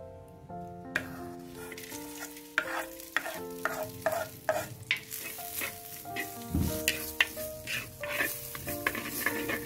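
Food frying with a steady sizzle while it is stirred, with repeated scraping and knocking strokes of a utensil against the pan; the sizzle starts about a second in.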